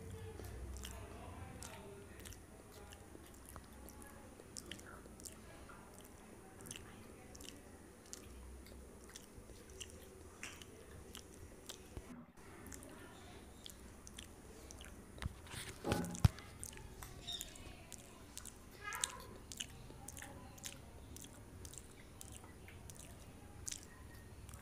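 Close-up mouth sounds of a person chewing a soft filled bread bun: small wet clicks and smacks, with a few sharper, louder clicks about two-thirds of the way through.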